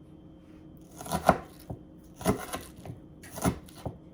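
Knife chopping onion on a cutting board: a handful of sharp strokes, roughly one a second, starting about a second in.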